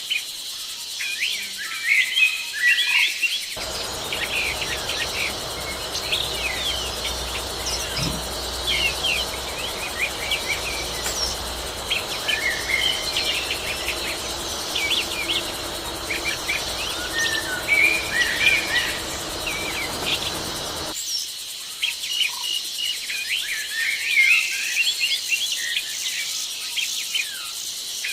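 Many birds chirping and calling over one another in a dense chorus of short, quick chirps, with an insect-like background. From about four seconds in until about 21 seconds a low steady rumble sits underneath, then drops out.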